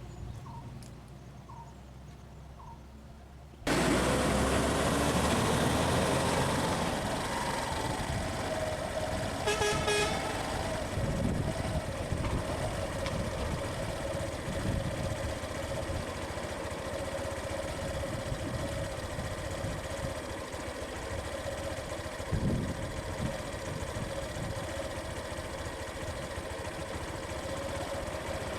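Road vehicle engines running, with a vehicle horn honking briefly about ten seconds in. It starts quieter with faint repeated chirps, then the vehicle noise comes in suddenly a few seconds in.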